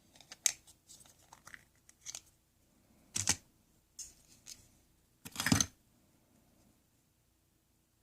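Scattered rustling and crinkling handling noises with a few sharp clicks, and two louder thuds about three and five and a half seconds in.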